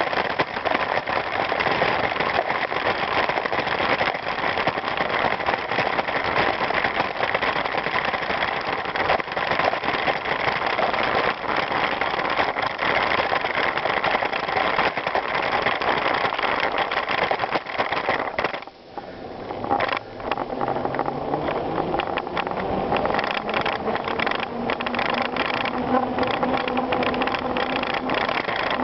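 Bicycle riding over a gravel trail: continuous rolling noise with many small clicks and rattles. It drops away briefly about two-thirds through, and after that a steady hum joins the noise.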